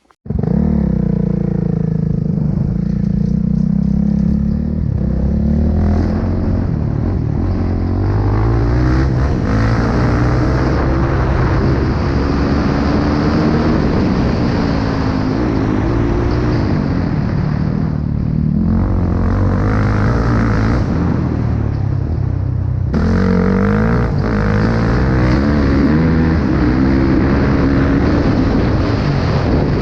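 Pit bike engines revving up and down as the bikes ride, in several cut-together stretches with brief breaks about two-thirds of the way through.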